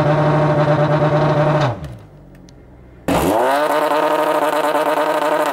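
Supercharged 3.0 TFSI V6 of an Audi SQ5 floored against the brakes, its revs held flat at about 3000 rpm by ignition-cut launch control. The note drops back to idle just under two seconds in. From about three seconds in it is held again, heard from outside at the exhaust tips.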